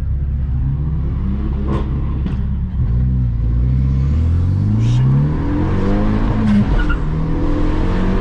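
Car engine accelerating hard, revs climbing and dropping back about four times as it shifts up through the gears.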